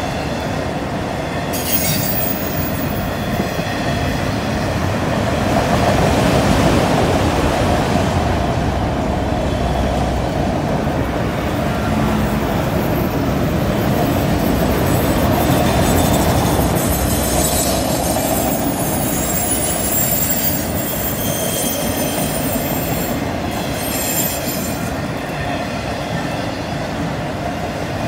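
Autorack freight cars rolling past, a steady rumble and clatter of wheels on rail. Bouts of high-pitched wheel flange squeal come from the train rounding the curve, about two seconds in and again through the second half.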